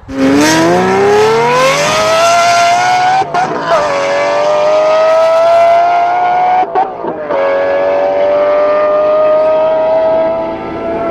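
Naturally aspirated V12 car engine at full throttle, loud, its pitch climbing steadily with quick upshifts about three seconds and about seven seconds in.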